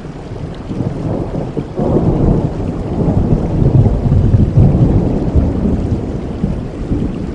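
Steady rain with a long roll of thunder that rumbles in about two seconds in, is loudest in the middle and fades toward the end.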